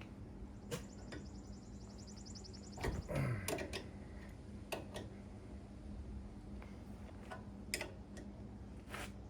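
Hand tools working on a car's brake hardware: scattered metallic clicks and taps, with a brief run of fast ticking about a second in, as a wrench is fitted onto a tight nut.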